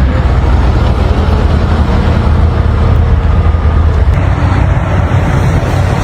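Motor vehicle engine running steadily: a loud low rumble with road or wind noise over it.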